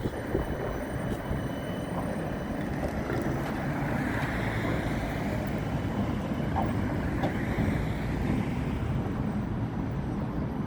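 Street vehicle noise: a steady low rumble, with a vehicle passing that swells about four seconds in and fades again.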